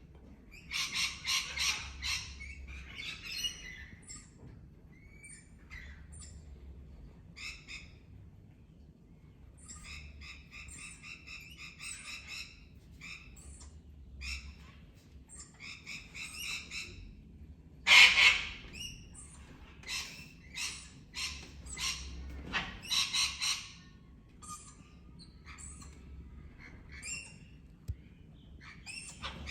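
Pet parrots chirping and squawking in quick, rapid-pulsed bursts with short pauses between them, one call much louder than the rest a little past halfway.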